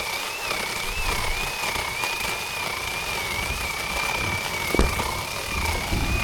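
Zhipu 48V cordless electric chainsaw running, a steady high motor-and-chain whine that wavers slightly in pitch about once a second, with a single sharp knock about five seconds in.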